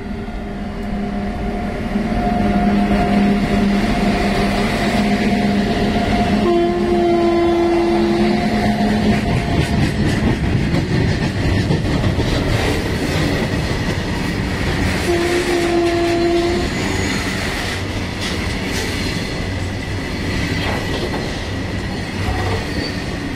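Indian Railways train running past on the rails with a steady rumble. Its horn sounds twice: about six seconds in and again about fifteen seconds in, each blast lasting a second and a half to two seconds.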